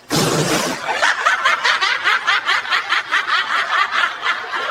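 Rapid, high-pitched snickering laughter, about five or six beats a second, after a short burst of breathy noise at the start.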